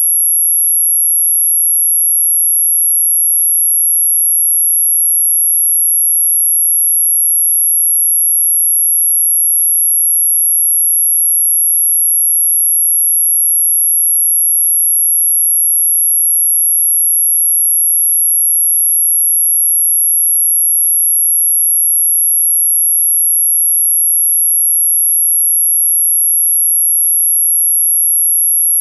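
A single, unbroken, very high-pitched electronic sine tone, played as an anti-mosquito repellent sound, holding one pitch and one level throughout.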